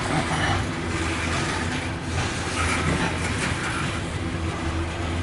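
Loaded coal train's hopper cars rolling past: a steady sound of steel wheels on rail with some clatter.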